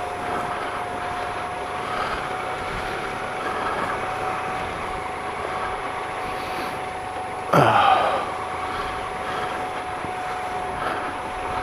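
Triumph Explorer XC's 1215cc three-cylinder engine running steadily, mixed with wind noise on the bike-mounted camera. About seven and a half seconds in comes a short, loud sound that falls in pitch.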